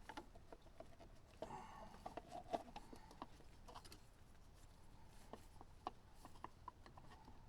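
Faint scattered clicks and light rubbing of parts being handled and worked into place by hand.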